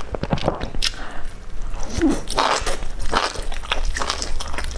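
Close-miked biting and chewing of spiced meat rolls with crispy fried strands on a skewer: a run of short, sharp crunches.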